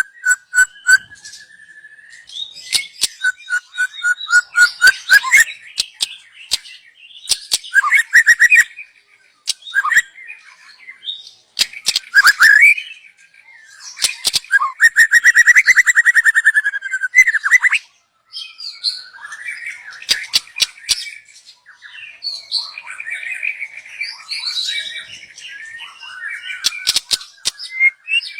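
Young wild white-rumped shama (murai batu) singing a varied song of whistled notes, fast trills and sharp ticking calls, in phrases broken by short pauses.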